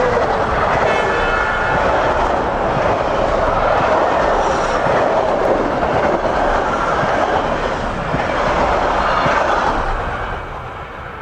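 Metra commuter train's passenger cars passing close by: a steady rush and clatter of steel wheels on the rails that fades away near the end.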